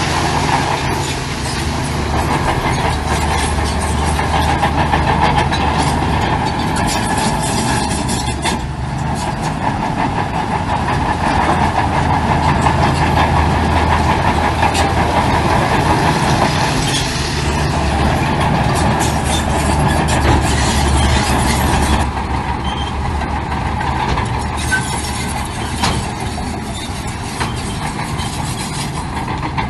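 Heavy diesel earthmoving machinery working: a big diesel engine running steadily under load with a rushing, clattering mechanical noise over it, easing off a little about two-thirds of the way through.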